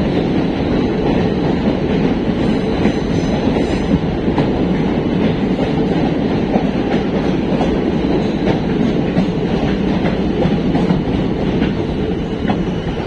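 Passenger train running, heard from on board: a steady, loud rumble with the wheels clattering over the rail joints.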